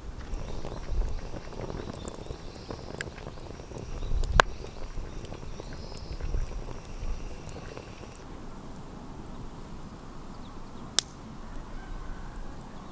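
Wood campfire crackling, with scattered clicks and two sharp pops, about four and a half seconds in and near the end.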